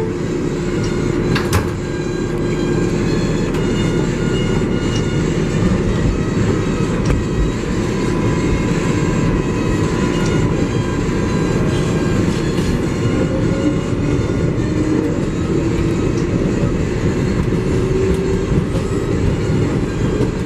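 R188 subway car of a 7 local train running between stations, heard from inside the car: a steady rumble of wheels on rail with faint motor tones, one of which rises in pitch in the second half.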